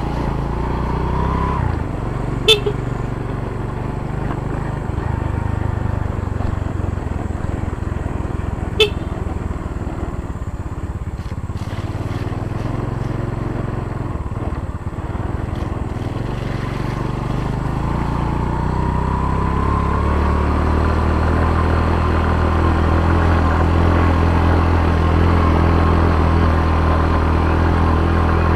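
Yamaha motorcycle engine running under way on a rough dirt road. It pulses at low revs around the middle, then revs up steadily through the last third. Two brief sharp clicks come about two and a half and nine seconds in.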